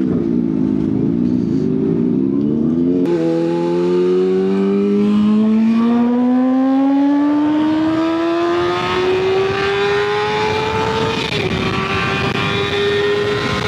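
Kawasaki ZX6R inline-four sport bike under hard acceleration on the highway, the engine note climbing steadily in pitch for about eight seconds. It dips briefly near the end and then holds high, with a rush of wind noise building as speed rises.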